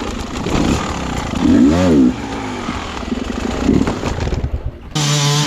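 Dirt bike engine under throttle, its pitch rising and then falling in one rev about a second and a half in, then running rougher; near the end it jumps to a steady held note.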